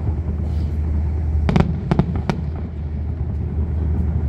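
Fireworks going off: a quick cluster of four sharp bangs about a second and a half in, over a steady low rumble.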